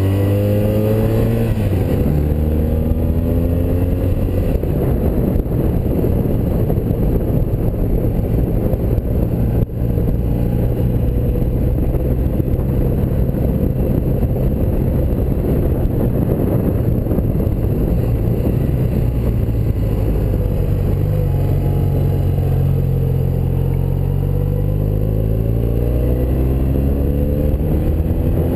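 1984 BMW R100RS's air-cooled flat-twin engine pulling the bike along under way, its pitch climbing as it revs up near the start and again over the last several seconds, with a steadier stretch in between.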